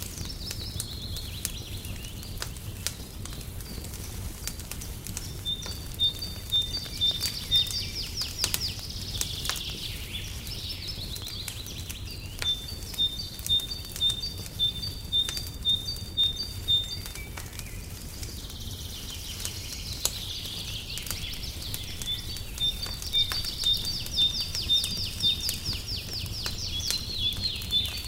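Birdsong in several phrases, fast trills and runs of clear repeated notes at about two a second, over a crackling fire with scattered small pops and a steady low rumble.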